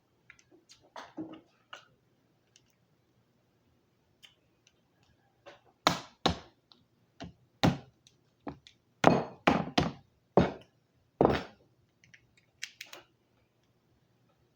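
Lobster shell being cracked: a run of about nine sharp, loud knocks packed into a few seconds in the middle, with softer clicks of shell being handled before and a few lighter taps near the end.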